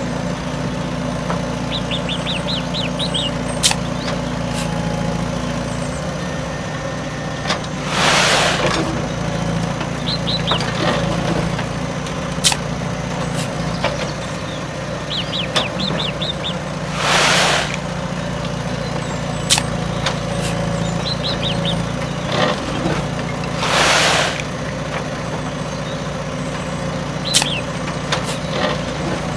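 An engine running steadily throughout. Birds chirp in short clusters now and then, and three short hisses, each just under a second long, are the loudest sounds.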